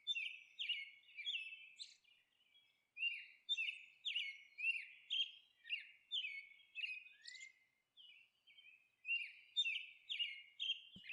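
Small birds chirping: many short chirps that slide down in pitch, coming in quick succession, with a pause of about a second and a half past the middle.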